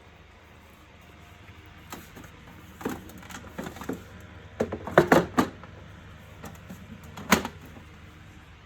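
Plastic clicks and knocks from the housing parts of a wet-and-dry vacuum cleaner being handled and fitted together. A quick run of sharp clicks about five seconds in is the loudest part, and one more sharp knock follows a couple of seconds later.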